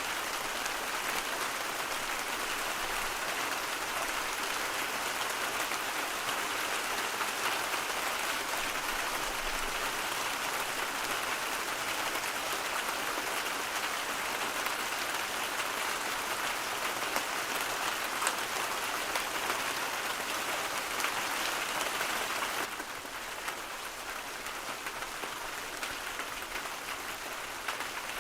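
A steady white-noise ambience of rain-like hiss with fine crackle through it. About 23 seconds in it steps down a little in level and thins in its middle range, as if one noise track gives way to another.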